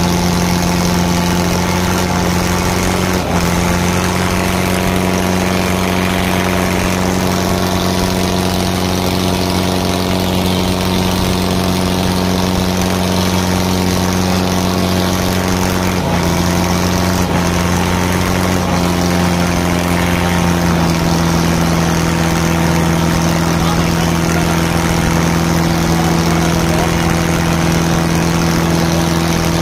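Diesel tractor engine running steadily at a constant speed, its pitch stepping slightly a few times.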